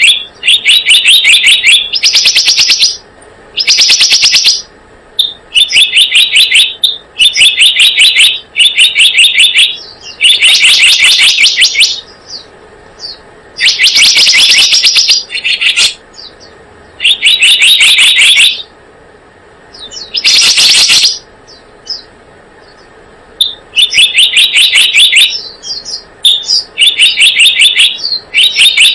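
Recorded lure call of the selendang biru bird, played on a loop: rapid chattering trills, each about a second long, repeated with short pauses; some phrases are pitched higher.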